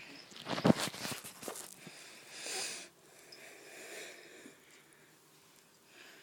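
A pet cat sniffing close to the microphone, with a burst of knocks and rustles in the first two seconds and a breathy sniff about two and a half seconds in.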